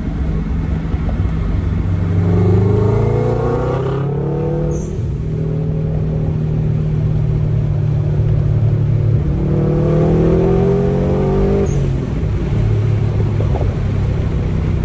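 2008 Subaru Impreza STI's turbocharged flat-four boxer engine, heard through a new Cobra cat-back exhaust with the car's windows down, accelerating hard. The revs climb twice, each time dropping sharply at a gear change, about four seconds in and again near twelve seconds.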